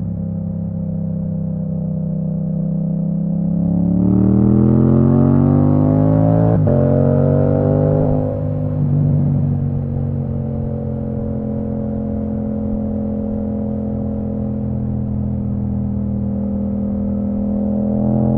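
2022 Yamaha MT-07's parallel-twin engine through an Akrapovic full titanium exhaust with the dB killer out, heard on the move. It runs steadily, then about four seconds in revs up in a rising pitch for several seconds, with a brief click partway through the climb. It then drops back to a steady lower cruise, and the revs rise again near the end.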